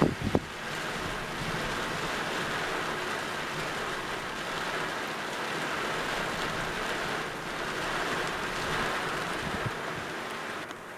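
Very strong gusting wind with rain, a steady rushing hiss, with the wind buffeting the microphone in a few low thumps right at the start.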